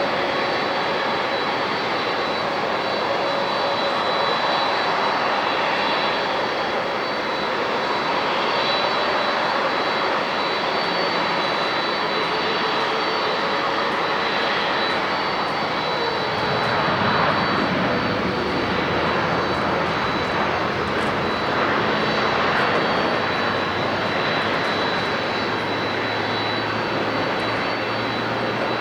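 Boeing 787-10 Dreamliner jet airliner landing: a continuous jet engine roar with a thin, steady high fan whine over it, swelling louder about two-thirds of the way through as the aircraft passes.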